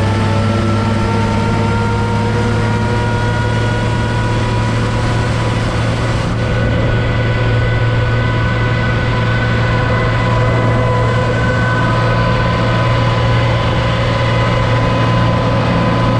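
Farm tractor engine running steadily under a constant throttle, with a strong low hum and a slight rise in pitch over the stretch.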